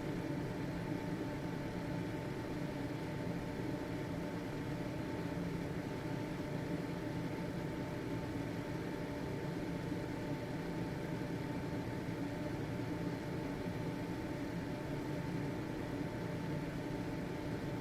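Household ventilation fan running steadily: a constant motor hum with a clear whine and an even airy rush.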